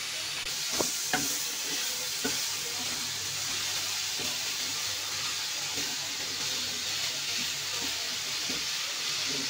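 Grated raw papaya sizzling as it fries in hot ghee in a nonstick kadhai, stirred with a wooden spatula: a steady frying hiss, with a few sharp knocks of the spatula on the pan in the first few seconds and soft scrapes after.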